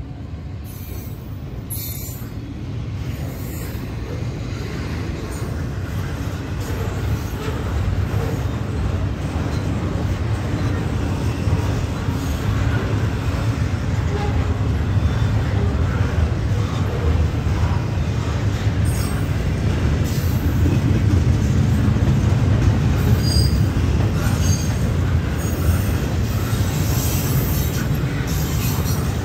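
Double-stack intermodal container train rolling past: a steady low rumble of steel wheels on rail that grows louder, with brief high wheel squeals in the second half.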